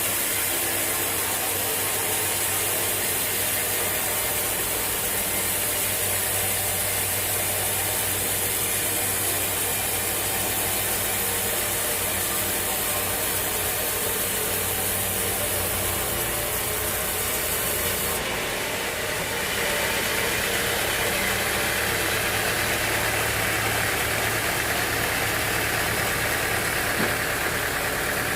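Sawmill machinery running: a steady engine hum under a hissing cutting noise. About two-thirds of the way through, a louder, higher hiss comes in.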